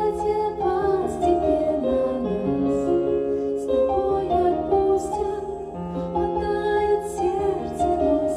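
Music: a woman singing a slow, gentle song over piano or keyboard accompaniment, with long held notes.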